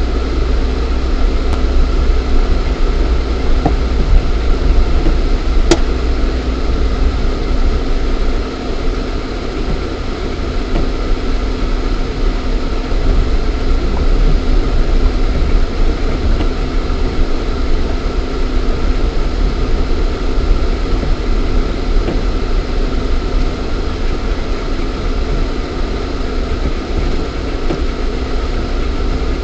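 Lada Niva 1.7i's four-cylinder petrol engine running with a steady low rumble, heard from inside the cabin. A single sharp click about six seconds in.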